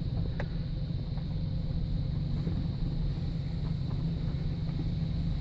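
2008 GMC pickup truck under way, a steady low rumble of engine and road noise.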